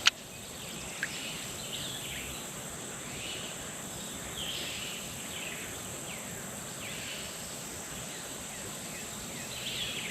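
Outdoor summer ambience: a steady high-pitched insect drone with short falling bird chirps repeating about once a second. A sharp click right at the start.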